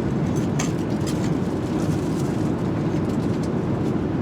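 Steady low roar of an airliner cabin in flight, the engine and airflow noise holding an even level, with a few faint ticks about half a second in.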